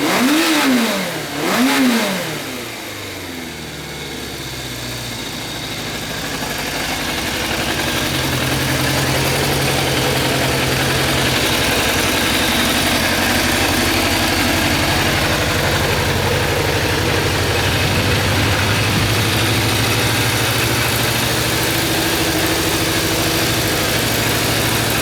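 Suzuki GSX400F's air-cooled inline-four engine given two quick throttle blips in the first two seconds, then settling to a steady idle. It revs up cleanly and idles evenly.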